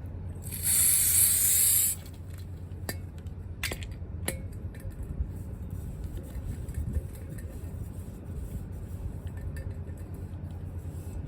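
A hissing burst of pressurised spray lasting about a second, followed by three sharp clicks.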